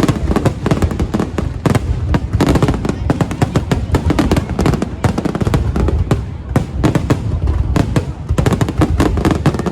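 Fireworks bursting in quick, irregular succession, a dense run of bangs and crackles, over music.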